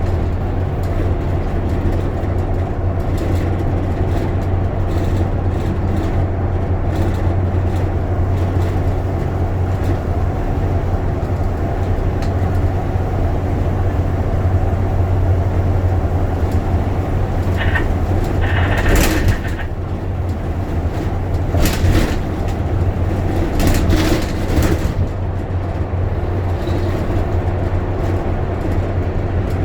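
Bus engine and running noise heard from inside the cabin: a steady low drone, with a few short sharp clicks and rattles about two-thirds of the way through.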